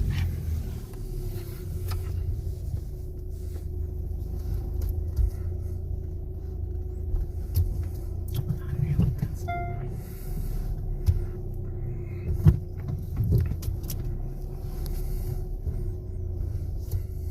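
Steady low rumble of a car and automatic car wash machinery heard from inside the car, with a steady hum, scattered knocks and clicks, and a short electronic beep about halfway through.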